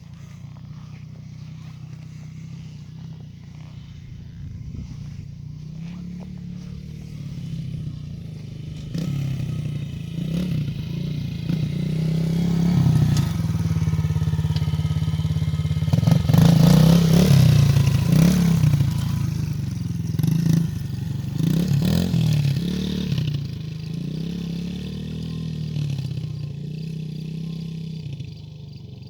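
Yamaha TT-R110 dirt bike's small four-stroke single running, growing louder as it comes closer. It revs up and down several times in the middle, then eases off and gets quieter near the end.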